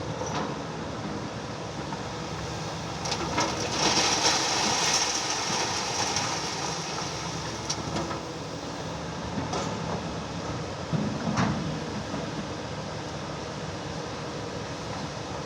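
Excavator working with its diesel engine running steadily and a few sharp knocks. About three and a half seconds in, a louder hissing rush lasts for a few seconds.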